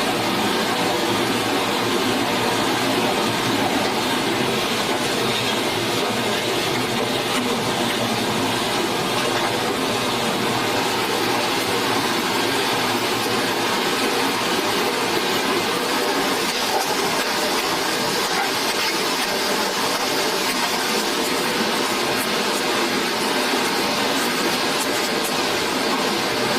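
Forest stream water rushing steadily in an even hiss.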